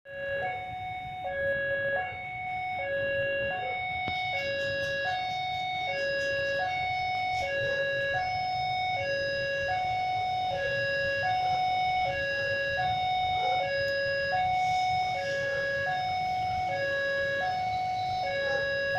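Electronic two-tone warning alarm alternating steadily between a higher and a lower note, changing about every three-quarters of a second, over a low steady rumble.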